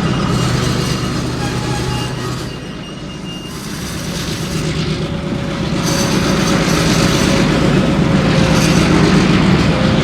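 Diesel freight locomotive running during yard switching, a steady low rumble and hum that eases off about three seconds in and then builds back up.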